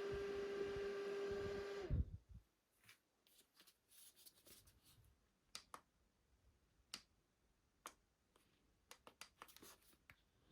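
A mini fan's small electric motor runs with a steady whine, then is switched off with a thump about two seconds in. Scattered light clicks and taps follow as the fan is handled.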